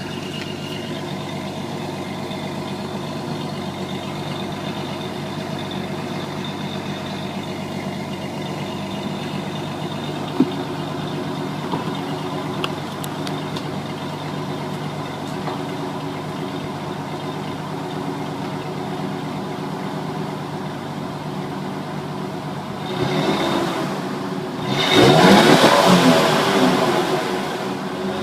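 2005 Ford Ranger's 3.0 L V6 idling steadily through its stock exhaust, whose third catalytic converter has been gutted, giving a light rumble. Near the end it is revved briefly, then revved harder once and let fall back to idle.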